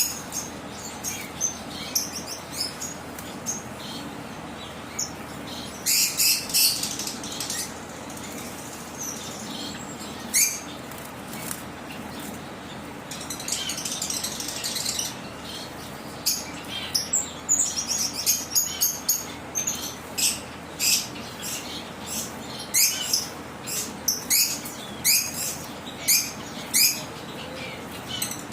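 Zebra waxbills making short, high-pitched chirps in scattered runs that come thick and fast in the second half, over a steady low background hum.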